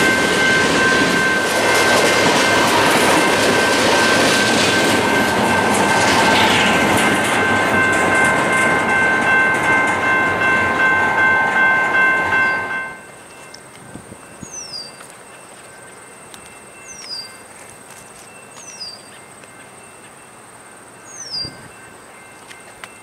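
Freight train's cars rolling past close by, a loud rumble with wheels clacking over the rail joints and steady high squealing tones over it, until the last car clears about twelve seconds in. Then a quiet background: a steady high insect drone and a bird's short descending call repeated every couple of seconds.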